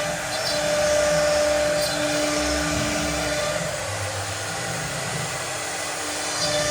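CNC cutting machine running: a steady whirring hiss with a steady hum through it.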